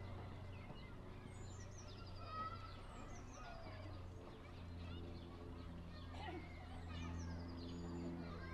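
Small songbirds chirping and twittering outdoors, many short quick calls with sliding pitch. A steady low hum of several held tones runs beneath them and grows stronger about halfway through.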